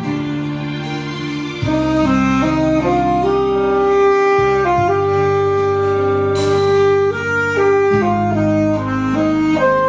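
Saxophone playing a slow, held-note melody over a backing track with bass and chords.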